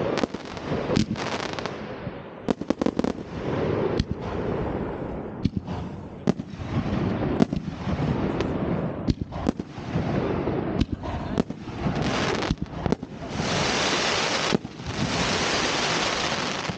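New Year's Eve fireworks: many sharp bangs from shells and firecrackers going off in quick, uneven succession, mixed with longer stretches of dense rushing noise, the loudest about two-thirds of the way through and again near the end.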